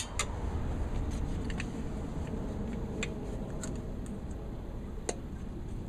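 A sharp metallic click, then a few scattered light ticks and taps of tools and metal being handled, over a steady low hum.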